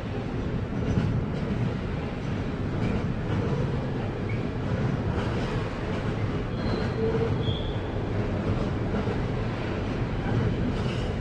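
Container freight train rolling slowly through the points, wheels and cars rumbling steadily, with a few brief high wheel squeals at the switches in the middle.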